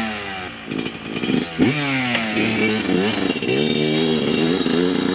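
Yamaha F1ZR's single-cylinder two-stroke engine being revved through a crisp-sounding (garing) exhaust. The revs fall at the start, a sharp throttle blip comes about a second and a half in, then a run of quick blips rising and dropping back.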